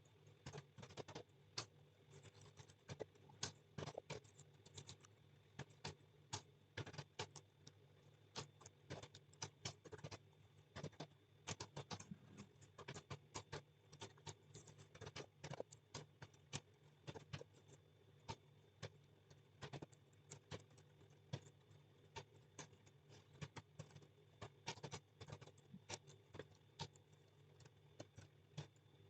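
Typing on a computer keyboard: irregular clicks, several a second with short pauses, over a faint low hum.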